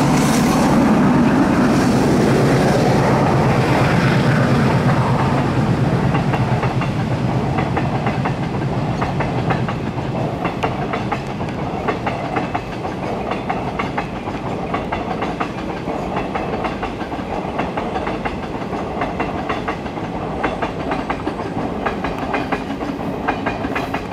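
Express train's passenger coaches rolling across a concrete viaduct: a steady rumble with rapid clickety-clack of wheels over rail joints. The low drone of the WDM-3A diesel locomotive's engine fades over the first several seconds as it pulls away.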